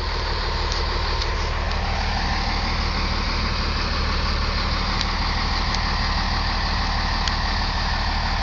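Car engine idling, a steady low hum with an even hiss over it.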